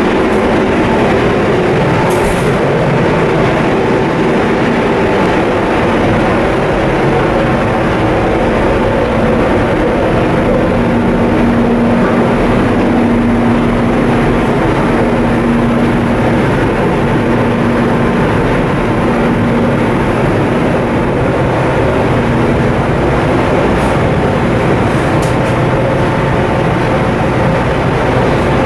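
Coastal cargo ship's diesel machinery running steadily under way on a sea trial: a loud, constant drone with a low hum that swells and fades.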